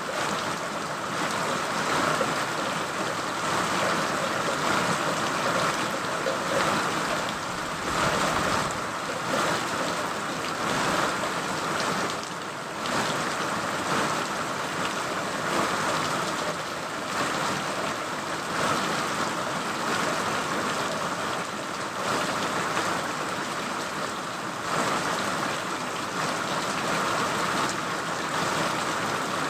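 Steady rain falling, a continuous even hiss of rain that swells and eases a little from moment to moment.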